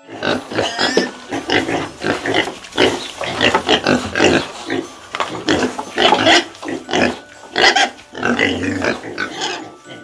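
Pigs grunting in a quick run of short calls, several a second.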